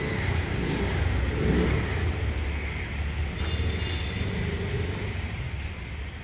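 Steady low rumble of a motor vehicle on the road, with road noise.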